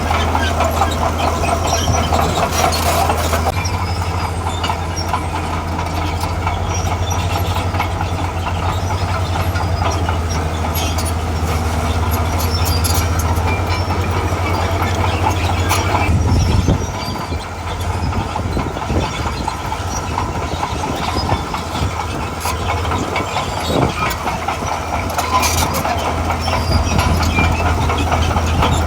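Diesel engine of a tracked earthmover running under load, with steady clattering of its steel crawler tracks and a few sharp metal knocks. The engine drone drops briefly about halfway through, then picks back up.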